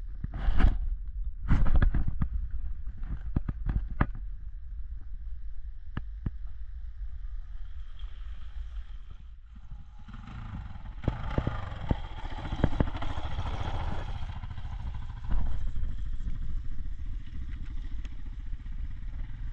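Dirt bike engine running, swelling louder for a few seconds in the middle, under a steady low rumble with a few sharp knocks near the start.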